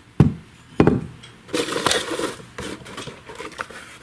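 Hard parts being handled on a workbench: two solid knocks a little over half a second apart, then a short scrape or rustle and a few light clicks.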